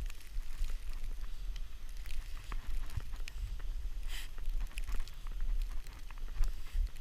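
Wind rumbling on the microphone during a snowstorm, with scattered short crackles and scrapes of snow and a brief hiss about four seconds in.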